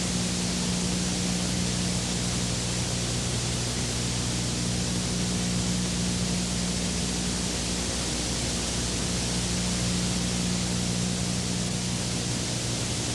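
Steady, even hiss with a low electrical hum underneath, unchanging in level.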